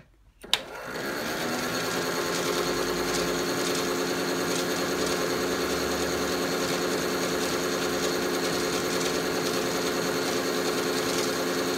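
Battery-powered Europlay Tide Juniors Home toy washing machine going into spin, running on low batteries: a click about half a second in, then its small electric motor spins the drum up over about a second and keeps whirring steadily.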